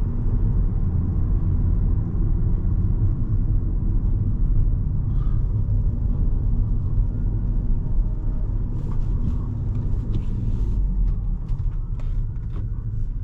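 Steady low engine and road rumble inside the cabin of a 2017 Volkswagen Jetta SE with a 1.4-litre turbocharged four-cylinder, being driven. A few faint clicks come in a little past the middle.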